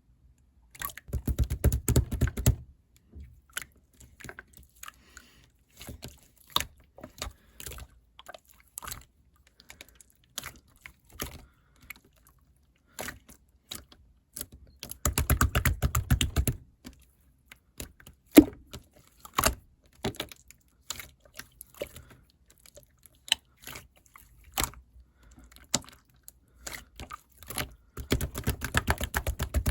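Rapid small clicks and crackles in three dense runs of a second or two each, with scattered single clicks between.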